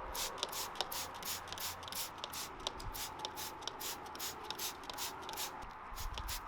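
Hand trigger spray bottle pumped rapidly, squirting degreaser in short hissing bursts at about four a second.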